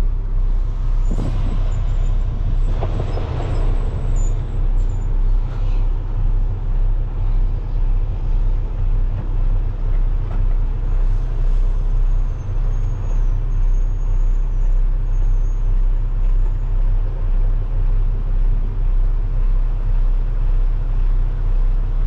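Semi-truck diesel engine running steadily under a heavy load, heard from inside the cab while driving, a deep drone that pulses gently and evenly.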